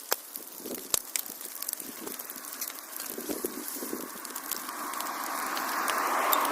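Wood fire crackling with sharp pops. A hissing rush grows louder over the last couple of seconds.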